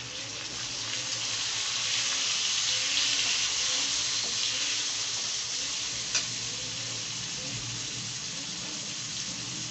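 Tomato pieces sizzling in hot oil with fried onions and whole spices in a kadai, stirred with a slotted metal spatula. The sizzle swells over the first few seconds and then eases a little, with a single sharp tap about six seconds in.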